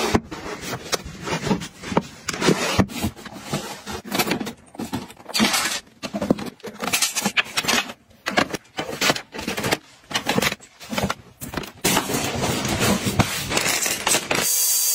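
Small items being handled and set down while tidying, heard as a run of clicks, knocks, scrapes and rustles. A steady hiss starts near the end.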